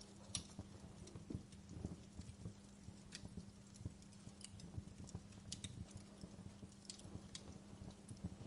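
Wood fire crackling: irregular small pops and snaps, several a second, over a low steady hum.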